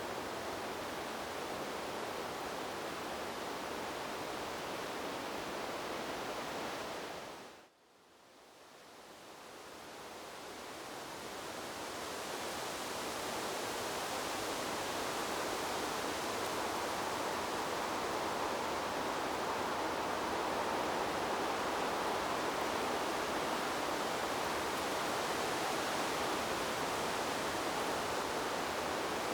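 Steady, even rushing noise of wind in trees, as in a white-noise ambience. About seven seconds in it drops away sharply to near silence, then swells back over the next several seconds and settles a little louder and brighter than before.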